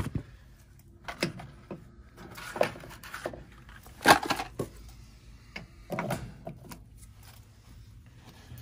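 Irregular knocks and clatters of parts and tools being handled during furnace work, about half a dozen, the loudest about four seconds in.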